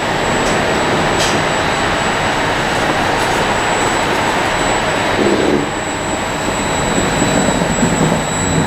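Steady, loud running noise of an electric train at a station platform, with a constant high-pitched whine over it.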